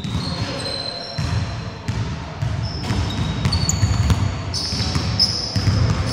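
Basketball bouncing on a wooden gym floor during play, repeated thuds with short high squeaks scattered over them.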